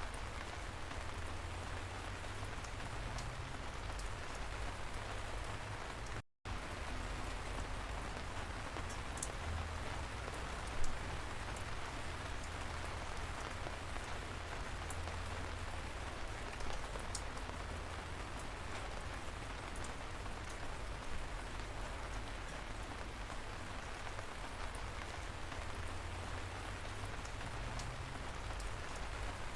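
Light rain falling steadily, an even patter with a few sharper, louder drops; the sound cuts out for an instant about six seconds in.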